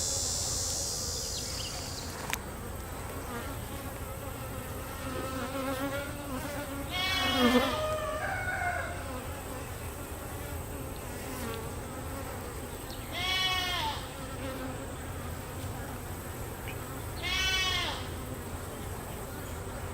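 Honeybees buzzing steadily around an opened hive, with goats bleating three times, about a third of the way in, past the middle and near the end.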